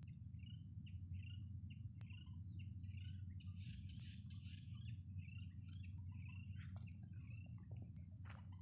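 Small birds chirping in quick series of short, high calls over a steady low rumble, with a few sharp clicks near the end.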